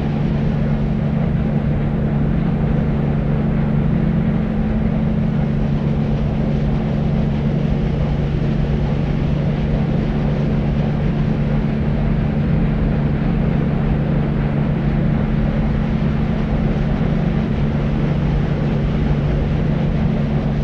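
Steady deep white noise, a low rumble weighted towards the bass, with a constant low hum and little hiss at the top.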